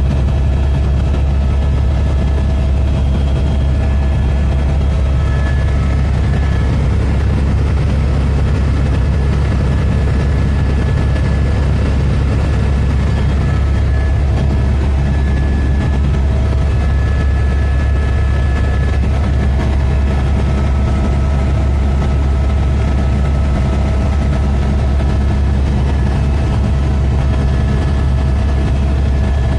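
Helicopter in steady flight: a loud, constant low drone of rotor and engine, with faint steady whining tones above it.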